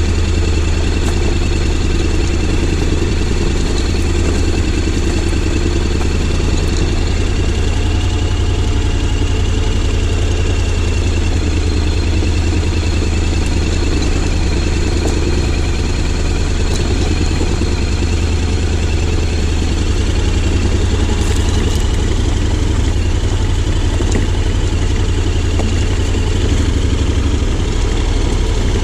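Honda X-ADV 750's parallel-twin engine running steadily, with no revving.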